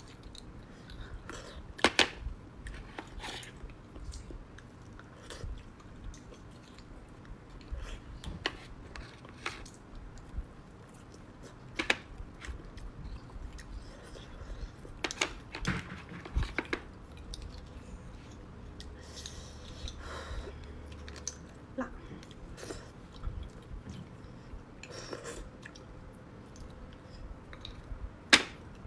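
Close-miked chewing and mouth sounds from eating beef bone marrow and fatty meat, with irregular wet smacks and clicks, a few of them sharp and loud.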